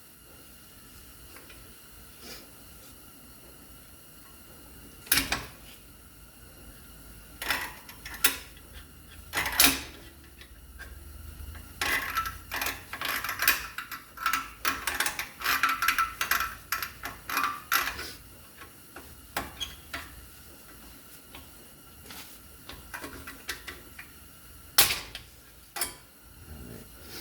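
Scattered metallic clicks and clinks, with a busy run of clinking and rattling in the middle, as a pry tool works the spring clip off a brake caliper.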